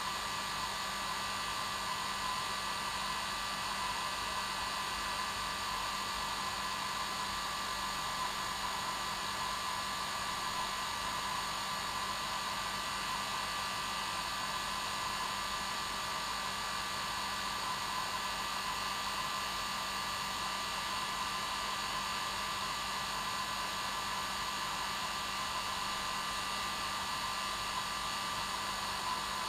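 Hair dryer running steadily, a constant whooshing airflow with a steady motor whine and no change in speed.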